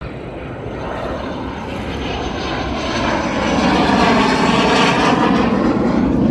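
Airplane engine noise as the plane flies past, a steady rushing sound that grows steadily louder as it comes closer.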